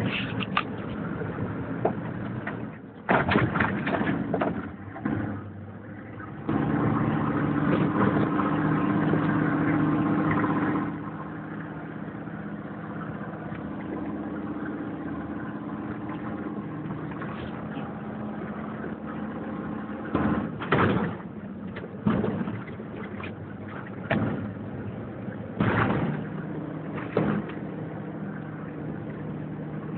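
A 1996 Dodge 2500 pickup's engine running steadily, louder for a few seconds about a quarter of the way in and then settling to an idle-like hum, with several brief bursts of noise over it.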